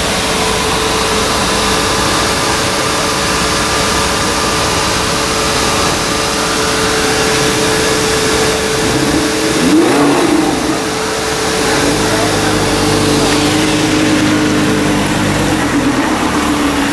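Lamborghini Gallardo's V10 engine idling, with one short rev rising and falling about ten seconds in, then running steadily again.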